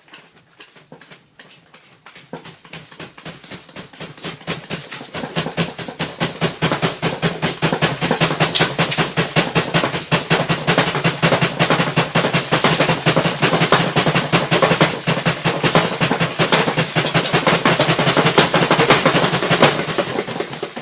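Homemade cardboard tumble dryer running: a steady motor hum under a rapid rattling clatter. The clatter speeds up and grows louder over the first several seconds, holds, then eases off near the end.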